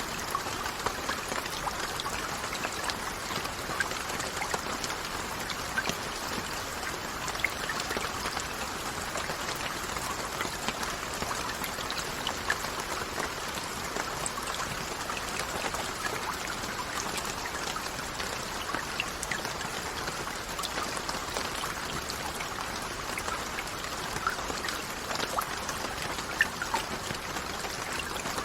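Steady rainfall, a constant hiss of rain with many individual drops heard as small ticks scattered through it.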